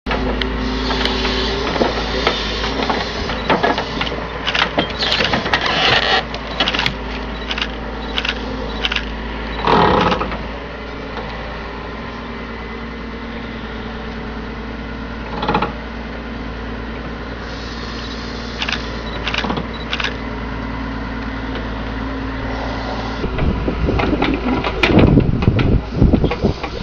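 Hydraulic excavator running steadily, with repeated knocks and clatters as its grapple handles material; the knocks come thickest in the first ten seconds and again near the end.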